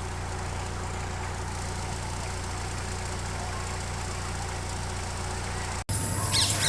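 Car driving, heard from inside the cabin: a steady low engine and road rumble. It cuts off abruptly near the end.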